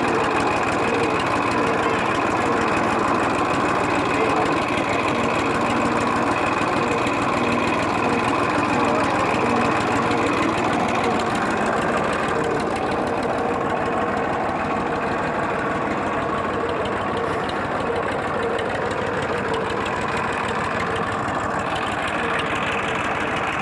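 Massey Ferguson tractor's diesel engine running steadily, with a knocking engine note.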